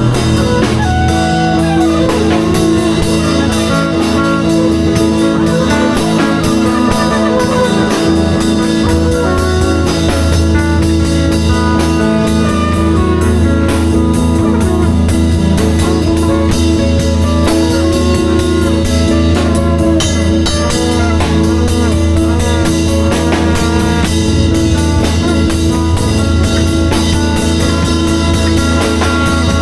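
Live band improvising: guitar playing wandering melodic lines over a drum kit and a sustained bass, in a rock or blues vein.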